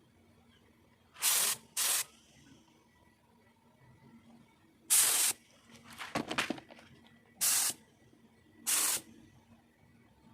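Compressed-air spray gun firing short bursts of hissing spray, five pulls of the trigger with a crackly, uneven sputter between the third and fourth.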